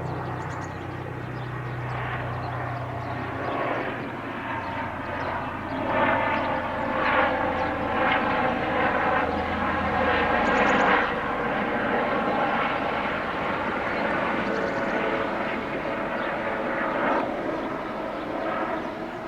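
CFR EA-class electric locomotive hauling a regional passenger train past at close range: a steady low hum from the locomotive for the first half, under a louder noise of the train running by that swells in the middle and cuts off at the end.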